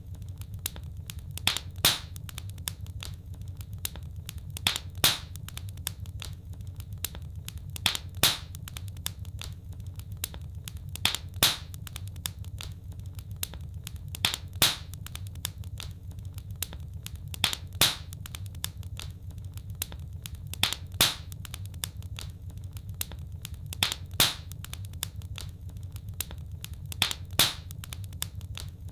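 Wood fire crackling in a fireplace: sharp pops and snaps, often in pairs, about every three seconds over a low steady rumble of the burning fire, in an evenly repeating pattern.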